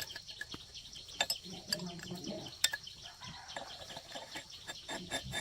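Faint birds chirping steadily, with scattered sharp clicks and taps.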